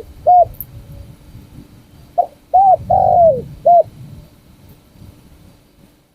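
Spotted dove cooing: one short coo just after the start, then about two seconds in a full phrase of two short coos, a long coo that falls in pitch at its end, and a last short coo.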